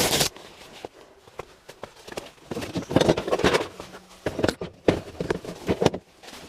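Fabric of a portable ice fishing shelter rustling and flapping as it is pulled open and set up, with irregular knocks and footsteps in snow.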